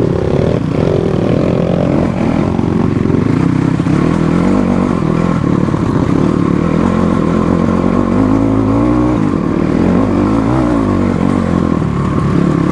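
Motorcycle engine running as the bike is ridden off-road, its pitch rising and falling with the throttle, most clearly between about eight and eleven seconds in.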